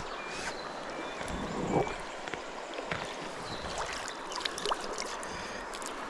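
Steady rush of river water over stones, with a louder splashy swell near two seconds in and scattered light clicks.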